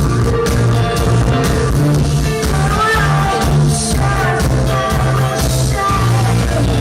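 Live synthpop band playing loudly, with a female lead voice singing over steady bass and drums.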